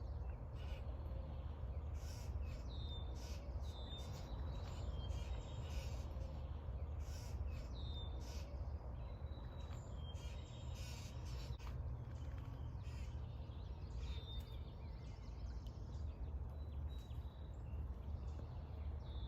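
Birds calling in short high chirps every second or two over a steady low rumble.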